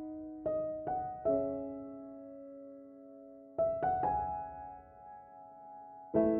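Slow, gentle piano music: notes struck in small groups of about three, each left to ring and fade before the next, with a fuller chord struck near the end.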